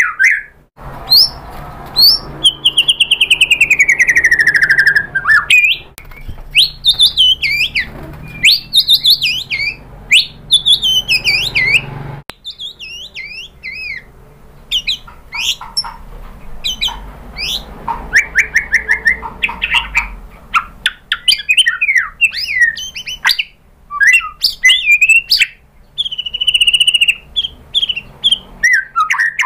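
White-rumped shama (murai batu) singing continuously: a long, varied run of whistles, chirps and fast trills, with a long falling whistle near the start. The song is packed with its learned filler phrases (isian) taken from other birds.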